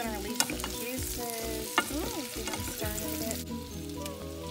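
Mango slices sautéing in butter in a saucepan: a steady sizzle with the clicks and scrapes of a wooden spoon stirring. The sizzle cuts off suddenly about three and a half seconds in.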